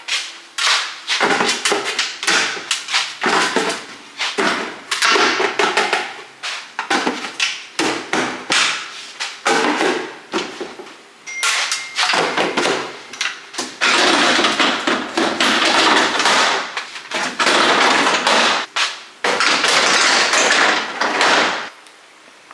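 Refrigerator clean-out: shelves, glass and containers being handled, with repeated sharp knocks and clatter and, in the second half, longer stretches of dense rushing noise. The sound drops away shortly before the end.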